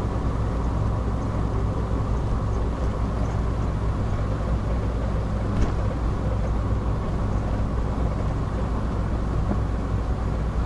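Car cruising at a steady speed, heard from inside the cabin: an even drone of engine and tyre noise on the road, with a faint tick about halfway through.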